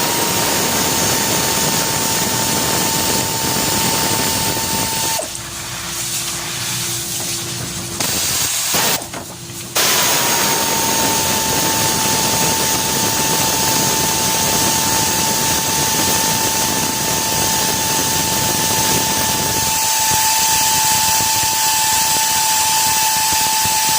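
A handheld power tool running at a steady whine, its pitch dipping slightly each time it starts under load. It runs for about five seconds, stops, gives a short burst, then runs steadily again for the rest of the time while backing out the timing-chain guide bolts.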